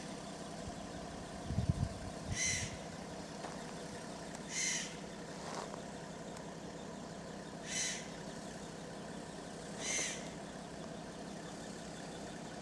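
A bird's short call, repeated four times at gaps of two to three seconds, over a steady low hum. A couple of brief low thumps come about two seconds in.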